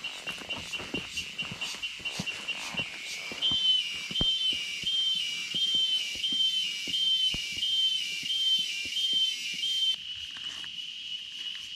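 A steady, high, shrill insect drone. From a few seconds in, a pulsing call of about two beats a second joins it and stops sharply near the end. Scattered light clicks and taps run underneath.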